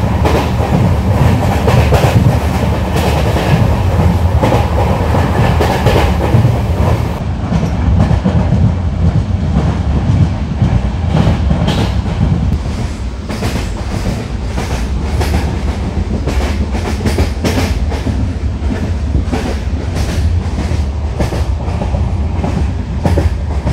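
Moving passenger train heard from inside the coach: a steady low rumble of the running gear with a repeated clickety-clack of wheels over rail joints.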